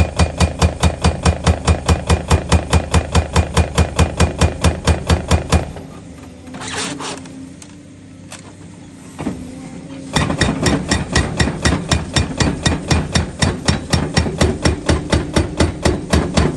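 Excavator-mounted hydraulic breaker hammering at a steady rate of about four blows a second. About six seconds in it stops for about four seconds, leaving the carrier's engine running, then starts hammering again.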